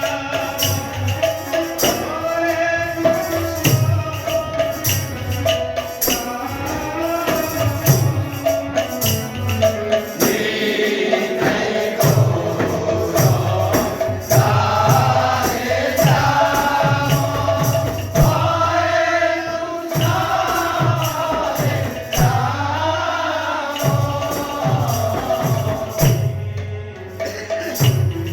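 Devotional kirtan: voices singing over a steady held tone, with a regular drum beat and jingling hand percussion.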